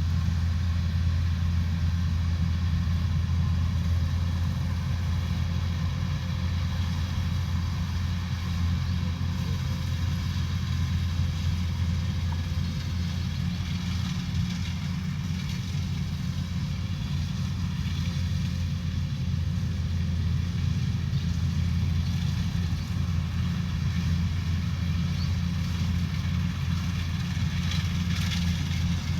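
Rice combine harvester running steadily, its diesel engine giving a constant low hum under a fainter mechanical rattle.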